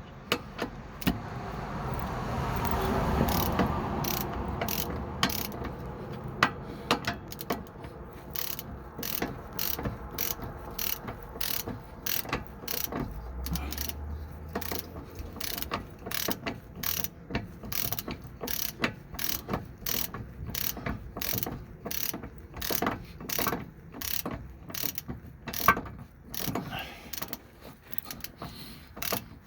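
Ratchet clicking over and over, about two clicks a second, as it turns the lower nut of a truck's sway bar link, after a rougher scraping noise in the first few seconds.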